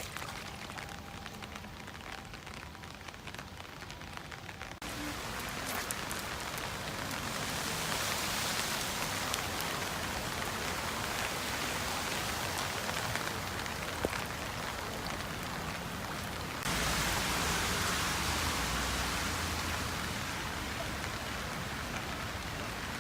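Rain falling steadily, a dense hiss of drops. It steps up suddenly in loudness about five seconds in and again at about seventeen seconds.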